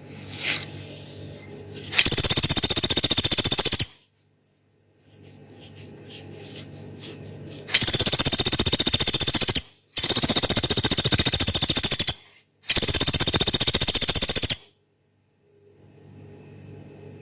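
Pelatuk beras, a small woodpecker, giving its long, rough rattling call: four fast, harsh trills of about two seconds each, with short gaps between them.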